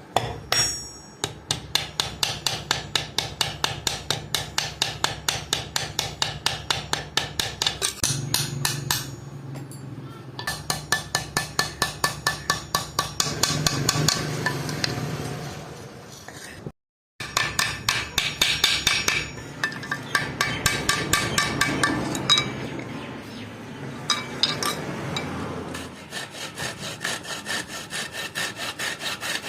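Hand hammer striking the steel of a cleaver blade in a fast, even run of blows, about four a second, each with a metallic ring. The hammering breaks off briefly a little past halfway and resumes.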